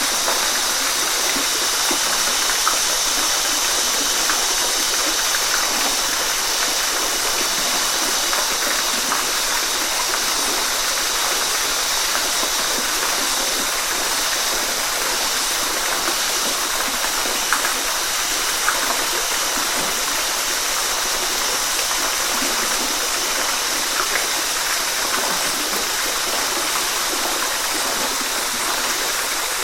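Waterfall: water falling and splashing in a steady rush, with a few small splashes standing out here and there.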